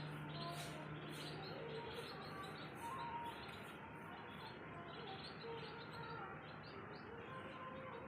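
Birds chirping, many short repeated chirps over a busy background, with a steady low hum that stops about two seconds in.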